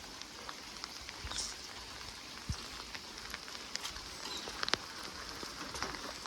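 Steady rainfall hissing, with single drops now and then tapping sharply.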